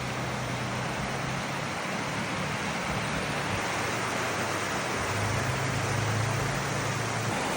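Water rushing through a pulled-out beaver dam: a steady, even hiss of flowing water. Underneath it is a low steady hum that grows a little stronger about five seconds in.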